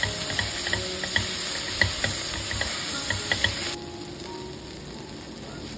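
Sliced onions and ginger-garlic-chilli paste frying in coconut oil in an aluminium pressure cooker, sizzling while a spatula stirs and scrapes against the pot with many quick ticks. Nearly four seconds in the stirring stops suddenly and the sizzle goes on more quietly.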